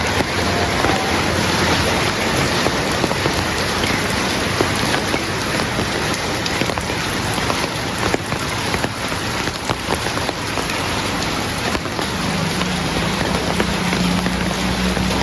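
Steady rain falling, a dense hiss with many individual drops ticking on surfaces. A low steady hum comes in near the end.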